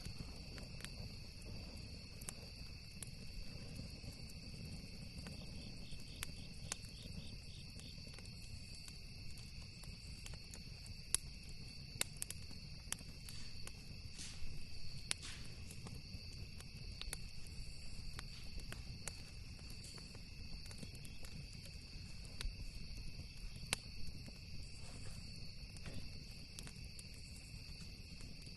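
Campfire crackling with scattered sharp pops, over a steady high drone of crickets chirping.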